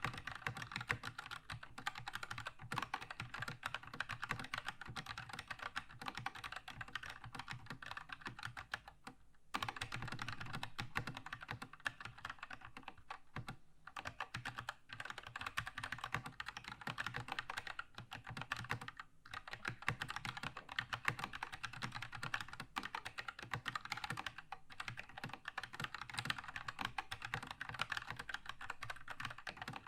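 Continuous fast typing on a Keychron K2 mechanical keyboard with red linear switches: a dense patter of key clacks, with brief pauses about nine and nineteen seconds in.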